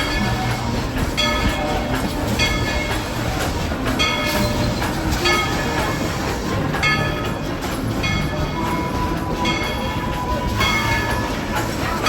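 Tweetsie Railroad steam train No. 190 rolling along with the cars clattering. Short ringing squeaks repeat about once a second.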